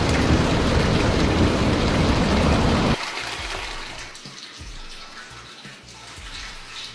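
Water pouring heavily in a loud, even rush that cuts off abruptly about three seconds in. A much quieter flow of water with scattered faint ticks follows.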